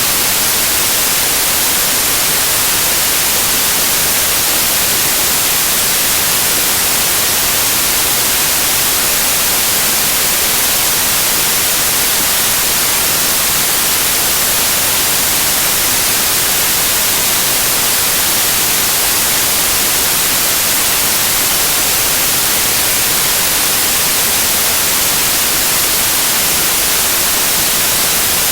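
Loud, steady white noise: an even hiss, brightest in the treble, that never changes.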